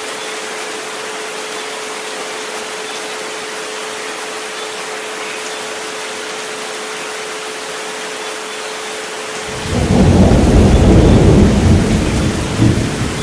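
Steady rain hiss with a pure 432 Hz tone held under it. About ten seconds in, a loud, low rumble of thunder breaks in and keeps rolling, covering the tone.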